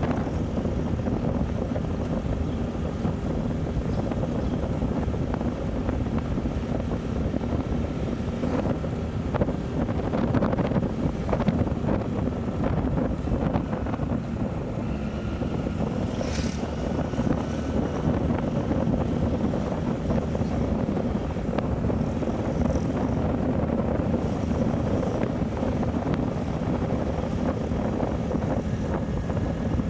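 Motorcycle running on the move, with wind rushing over the microphone.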